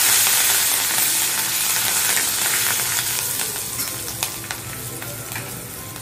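Curry leaves and chopped garlic sizzling in hot oil in a black kadhai. The hiss is loud at first and dies down steadily. In the second half a steel spoon stirs and clicks against the pan a few times.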